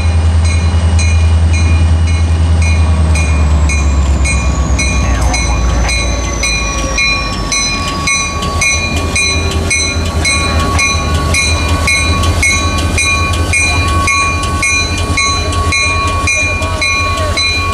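Diesel locomotive rumbling loudly as it approaches, with a high whine that falls in pitch as it passes. Then passenger cars roll by with a steady rhythmic clicking.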